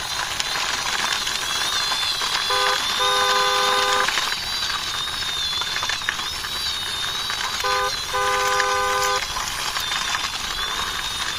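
Toy army jeep pushed along by hand, with a steady hiss and a high wavering whine under it. A two-note toy horn sounds twice, each time a short beep followed by a longer one.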